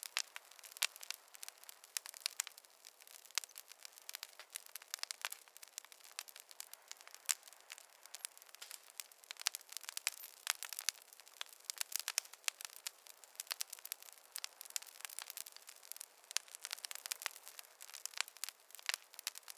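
Campfire crackling: wood burning with a dense run of sharp, irregular pops and snaps over a soft hiss.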